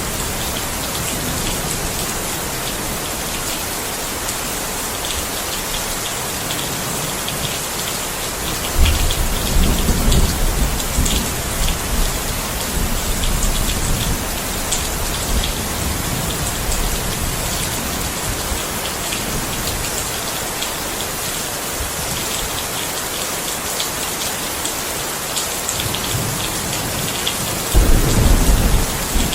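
Steady rain falling. A low rumble of thunder breaks in about nine seconds in and fades over several seconds, and another begins near the end.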